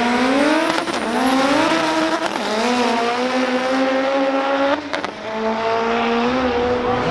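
Car engine accelerating hard down a drag strip: its pitch climbs, drops back at each gear change (about a second in and again near two and a half seconds) and climbs again, then falls away suddenly near five seconds.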